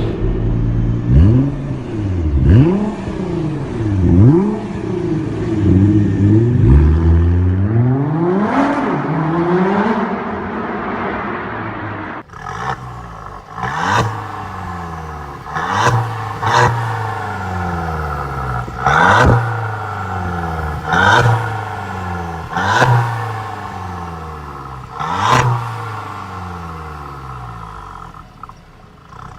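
Mercedes-Benz W205 C180 with an Underground Exhaust aftermarket sport exhaust, its engine revved again and again with quick rises and falls in pitch. Later on, sharp cracks come out of the exhaust as the revs drop: pops and crackles on the overrun.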